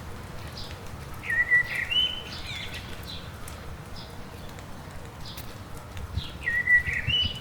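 A songbird singing the same short phrase twice, about five seconds apart: a held note that jumps up to a higher one, with faint chirps from other birds over a steady hiss of light rain.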